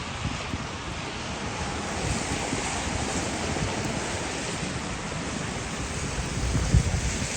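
Wind blowing across an outdoor microphone: a steady hiss with irregular low buffeting, and one louder low thump near the end.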